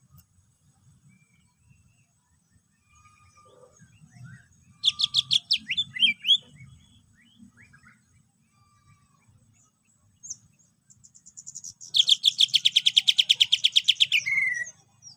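Cucak ijo (greater green leafbird) singing. A burst of quick high chirps comes about five seconds in, then from about twelve seconds a long, fast trill of rapidly repeated notes that ends in a short falling note.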